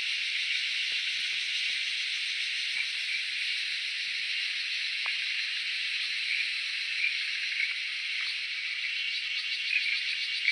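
Steady, dense chorus of forest insects, a continuous high shrill drone without let-up.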